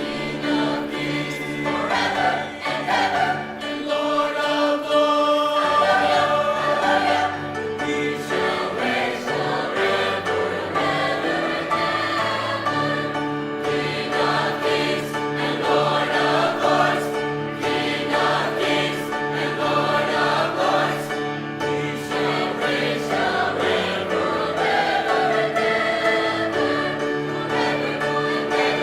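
High school choir singing a Christmas concert piece, many voices holding sustained chords that change every second or two, with accompaniment underneath.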